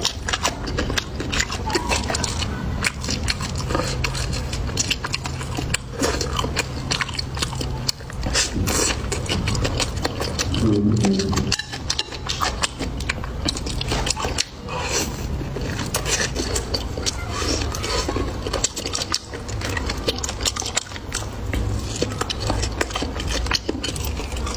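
Close-miked eating: irregular crunchy biting and chewing, with utensils clinking against dishes.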